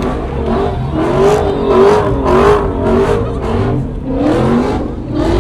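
A car engine revving up and down repeatedly, its pitch rising and falling about every half second over a steady low rumble.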